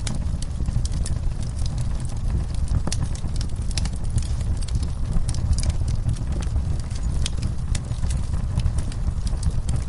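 Wood fire in a fireplace crackling, with frequent sharp snaps and pops at irregular intervals over a steady low rumble.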